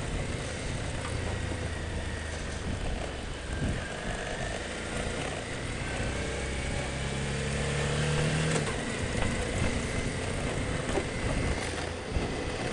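Motorcycle engine running steadily, with a rise in revs about seven seconds in that fades after a second or two.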